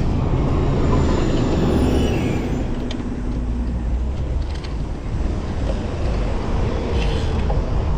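Wind rumbling over the microphone of a moving bicycle, with road traffic running alongside.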